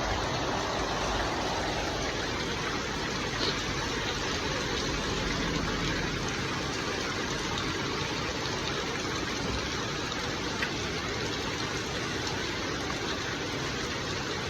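Water spraying in a steady, unbroken shower: a rain bath for a pet hill myna.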